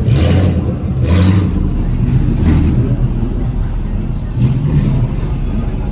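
Car driving on the road: a steady low engine and road rumble, with two short rushes of noise in the first second and a half.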